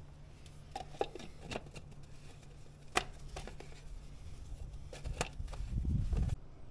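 A few sharp clicks and light knocks, spaced a second or two apart, over a steady low hum, with a low rumble near the end that cuts off abruptly.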